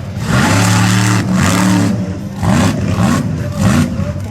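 Monster truck engine at high throttle, easing off, then revving up and down several times in quick blips.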